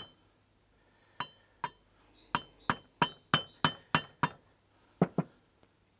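Hammer tapping on steel parts: about eleven sharp, ringing metallic taps, two singles, then a run of about three a second, then a quick pair near the end.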